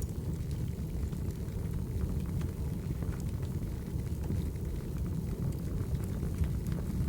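Wood fire burning: a steady low rumble of flames with small crackles and pops scattered throughout.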